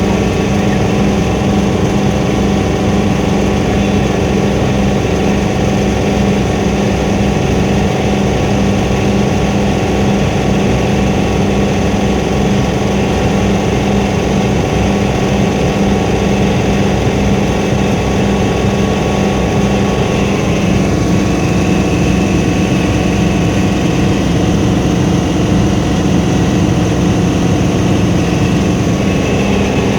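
Helicopter engine and rotor running steadily in flight, heard from inside the cabin: a loud, even drone with a strong low hum.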